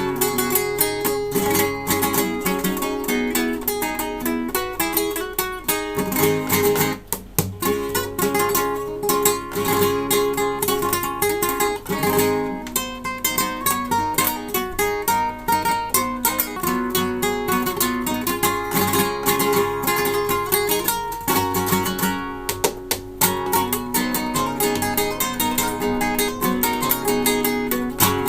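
Solo acoustic guitar playing a fast run of plucked notes and chords, with brief breaks in the flow a few times.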